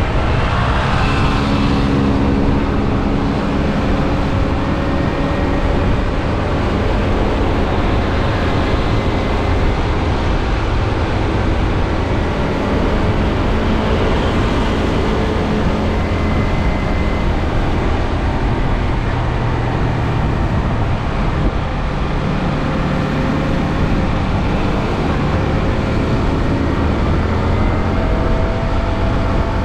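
Yamaha R15M's single-cylinder four-stroke engine running through its stock exhaust while riding, its pitch rising and falling gently with the throttle over a steady rushing noise.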